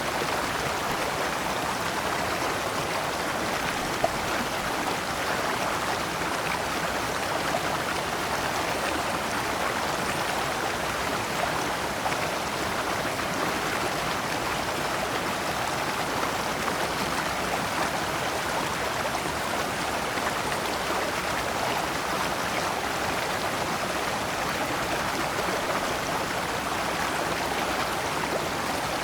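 Shallow rocky stream flowing over stones in small cascades: a steady, even rush of water.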